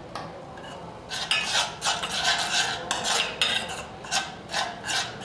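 A utensil scraping and stirring against a plate, mixing fine ash with paint thinner into a paste, in quick repeated strokes that start about a second in.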